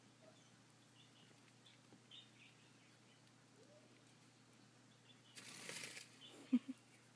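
Cockatiel flapping its wings in one short burst about five and a half seconds in, followed by a couple of quick low thumps. Before that, only faint soft chirps.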